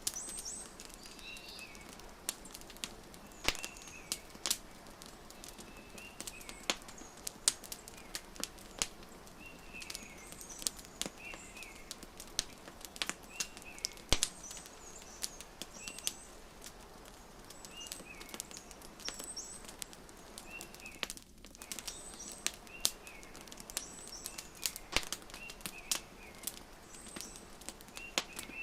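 Wood fire crackling in a fireplace, with irregular sharp pops over a soft steady hiss, while small birds chirp in short repeated calls every second or two.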